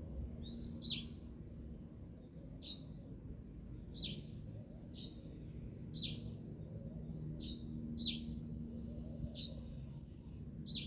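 A bird giving short, high, downward chirps, roughly one a second, about a dozen in all, over a low steady outdoor rumble.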